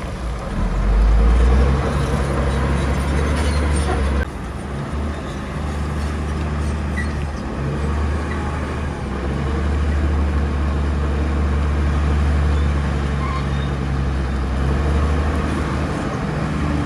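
Crawler bulldozer's diesel engine running under load with a deep, steady drone that swells and eases. The brighter noise above the drone drops away abruptly about four seconds in.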